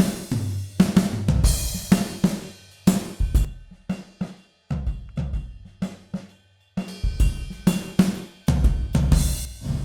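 Sampled 1970s Rogers Big R acoustic drum kit from EZDrummer 3's Alchemy of Pop EZX, played back on its "1985" preset: a groove of kick, snare, hi-hat and cymbals. The playing stops briefly about six seconds in and starts again about a second later.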